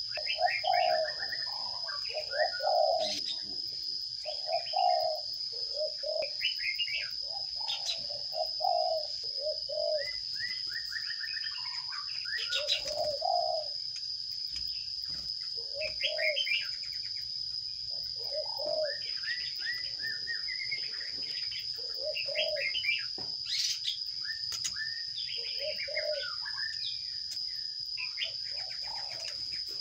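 Birds calling: bursts of short, low, cooing notes repeat throughout, mixed with many quick, high chirps. A steady high-pitched tone runs underneath.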